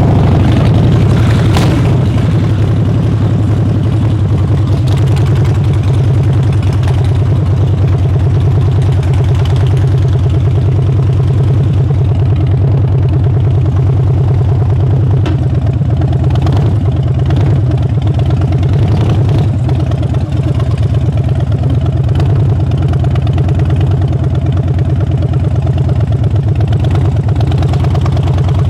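2014 Harley-Davidson Street Bob's 103 cubic inch V-twin engine idling steadily, a loud, deep, even beat.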